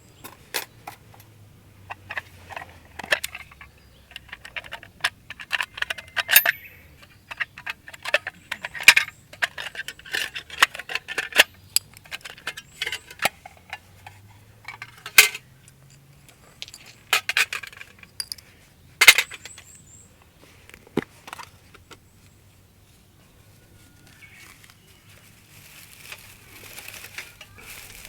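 Light metal camp gear being handled: a long series of separate sharp clinks and knocks, a few much louder than the rest, easing off for a few seconds near the end.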